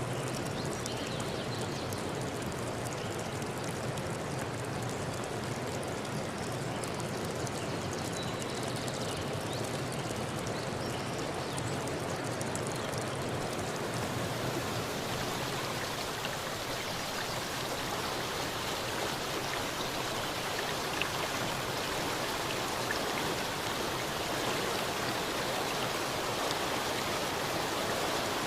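Stream water flowing steadily, an even rushing hiss; about halfway through the sound turns brighter and hissier.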